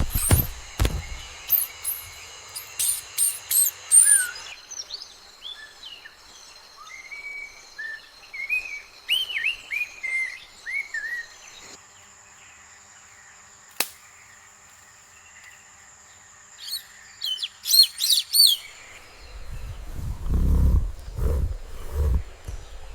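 Birds chirping and calling: quick bursts of high chirps near the start, a run of short falling calls in the middle, and another burst of chirps later. Several low thumps come near the end.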